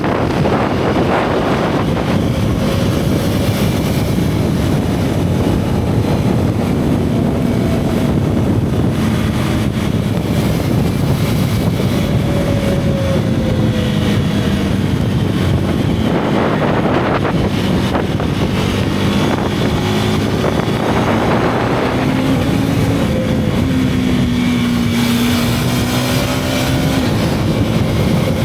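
Single-cylinder motorcycle engine under way, its exhaust note rising and falling in pitch as the throttle opens and closes through bends, with wind buffeting the action-camera microphone.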